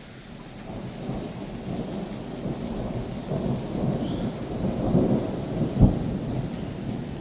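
Thunder rumbling, building up over the first second and rolling on, with a sharp loud clap near the end.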